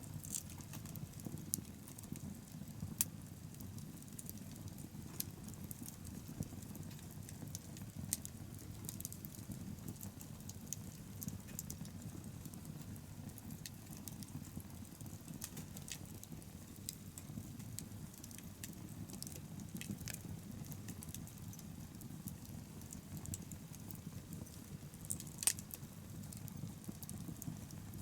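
Wood bonfire crackling: scattered sharp pops and snaps over a steady low rumble, with two louder pops, one about three seconds in and one near the end.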